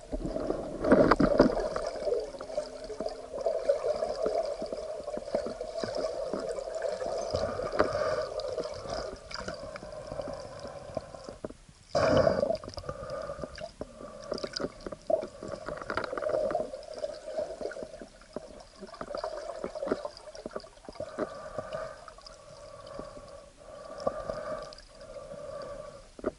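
Water and gurgling heard through an action camera's waterproof housing on a spearfishing dive, with a steady low hum and two short loud bursts, about a second in and about twelve seconds in.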